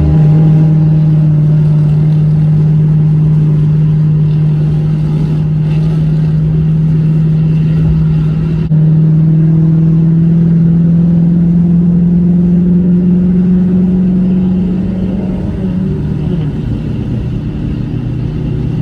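A car engine running close by, a steady low drone held at constant revs, which steps up in level abruptly about halfway through and eases off a little near the end.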